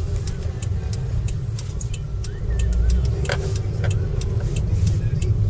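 Car driving slowly, heard from inside the cabin: a steady low road and engine rumble with frequent small sharp clicks and rattles.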